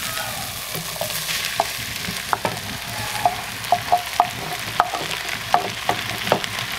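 Chopped onion frying in hot oil in a clay cazuela, sizzling steadily as chopped tomato and corn kernels are scraped in from a clay plate with a wooden spoon. The spoon knocks sharply against the clay about a dozen times from a second or so in.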